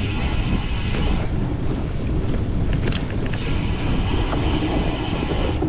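Wind buffeting the microphone of a cyclocross bike's onboard camera at racing speed, over the rattle and creak of the bike on rough ground, with a few sharp clicks.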